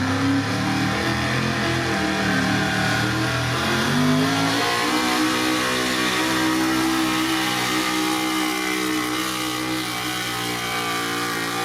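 A modified gas pickup truck's engine running at high revs under load while pulling a weight sled. The pitch dips and climbs again about four seconds in, then holds high and steady.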